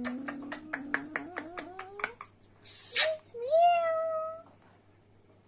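A rapid run of clicks, about six a second, over a rising pitched tone. Then a short noisy burst and one drawn-out meow that rises and then holds level.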